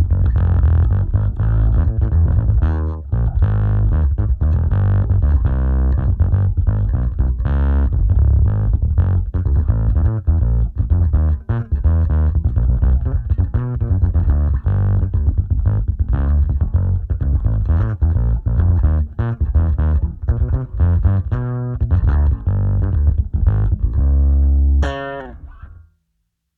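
Electric bass guitar played through a preamp and amp simulation into an Aguilar 4x10-with-tweeter cabinet impulse response: a continuous, heavy run of low notes with the highs rolled off. Near the end it slides up in pitch, then stops.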